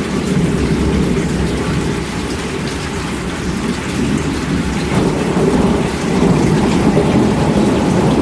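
Steady heavy rain with a low rumble of rolling thunder underneath, growing a little louder about six seconds in.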